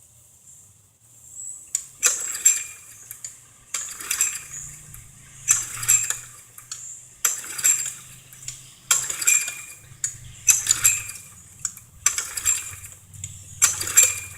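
Push mower's small four-stroke engine being pull-started again and again on its recoil starter rope: about eight pulls, roughly one every second and a half, starting about two seconds in, each a quick whirring rattle. The engine turns over but does not fire, which the owner later puts down to no spark, the plug coming out wet.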